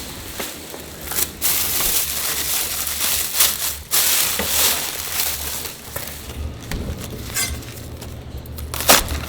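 Food-preparation handling noises in a restaurant kitchen: irregular crunching and crinkling with scattered knocks, over a low steady hum.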